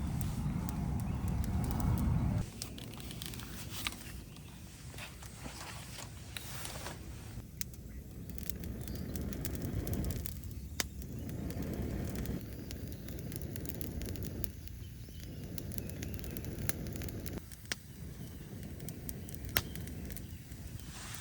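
Wood fire crackling in a folding fire pit, with many sharp pops. A low rushing noise is loud for the first couple of seconds, then comes and goes in softer swells.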